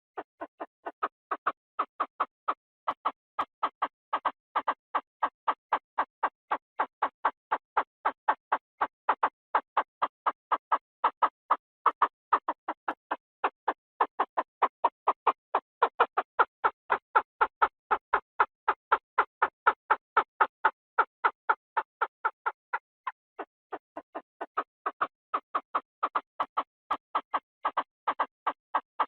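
Chinese francolin calling, played as a decoy recording: a steady series of short, clipped notes at about three to four a second, with one brief break about three quarters of the way through.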